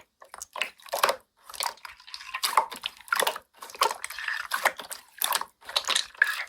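Slime being squeezed and kneaded by hand: a run of short, wet, sticky squelches and crackles, about two a second, at an uneven pace.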